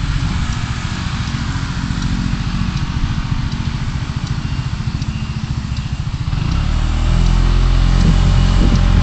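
Road vehicle engine running at low speed with a steady low throb, heard from inside a moving car. The engine and road noise grow louder about six and a half seconds in, as the vehicle speeds up.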